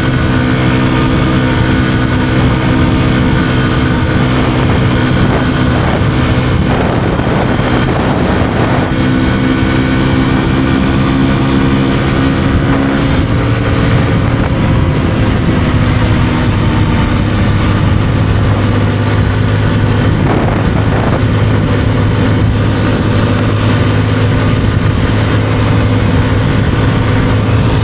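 Kawasaki KLX150E's single-cylinder four-stroke engine running steadily under way. Its note shifts partway through, about halfway in.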